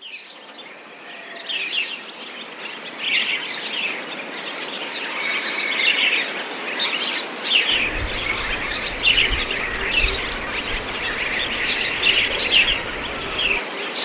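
Many small birds chirping at once, a dense run of short chirps over a steady hiss. About halfway in a low rumble comes in, stopping shortly before the end, with a few sharp clicks.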